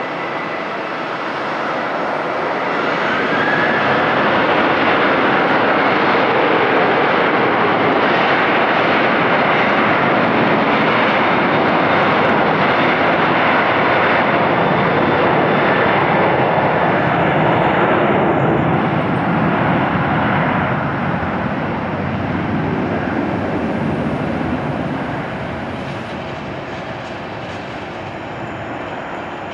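Boeing 737-800's CFM56-7B turbofan engines at takeoff thrust. The broad jet noise swells over the first few seconds, holds steady, then fades gradually through the second half as the airliner moves away.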